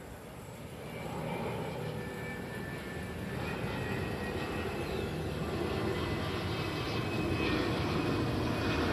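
Jet engines of an Airbus A330-900 (Rolls-Royce Trent 7000 turbofans), a steady rushing noise with a faint whine that grows gradually louder.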